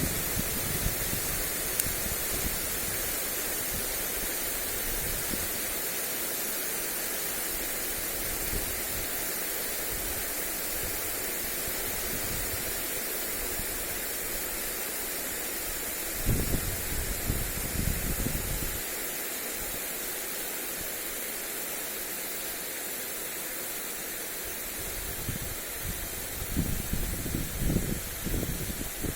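Lawn sprinkler spraying water over grass, a steady hiss, with gusts of wind buffeting the microphone just past halfway and again near the end.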